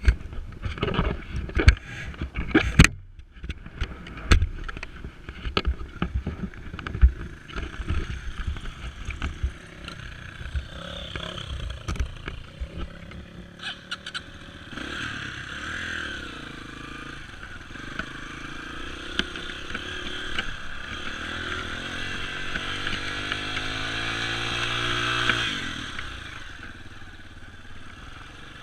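Dirt bike engine, preceded by a run of loud knocks and clatter. In the second half the engine runs with its pitch climbing steadily for several seconds as it revs up, then drops off suddenly near the end.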